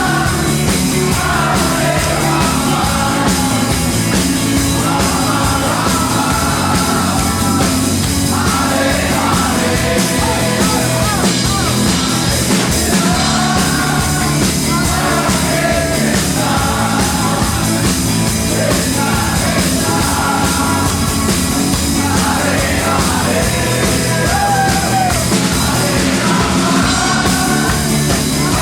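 Loud rock music: a singer's voice in phrases of a few seconds over steady, dense drums and bass.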